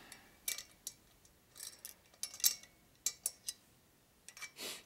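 Small metal clicks and taps of a washer and nut being handled and fitted onto a cylinder-head stud, with a short scrape near the end.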